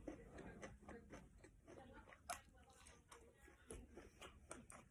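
A person chewing food close to the microphone, faint, with many small wet clicks and smacks and a sharper bite about two seconds in.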